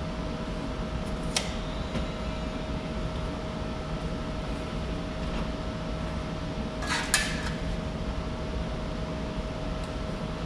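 Steady mechanical hum with a single sharp metallic click about a second in and a short rattle of metal-on-metal clinks around seven seconds in, as sheet-metal pieces and tools are handled.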